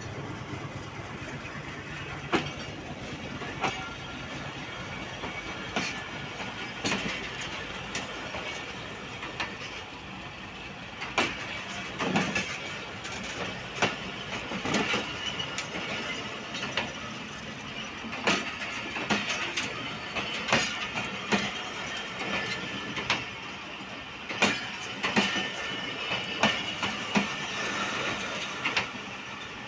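Passenger coaches of a diesel-hauled express rolling slowly past close by, their wheels clacking and knocking unevenly over weak, newly relaid track at a crossing. The clacks come more often near the end.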